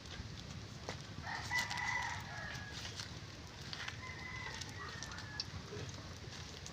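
A rooster crowing twice, about a second in and again about four seconds in, the second crow trailing slightly downward in pitch, over a low background rumble.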